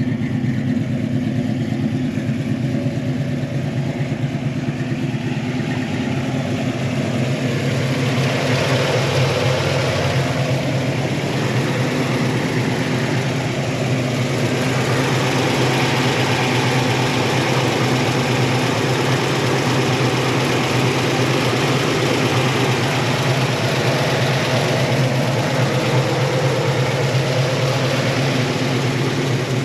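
Chevrolet 350 small-block V8, fitted with a mild cam and a new Holley carburetor, running at a steady idle.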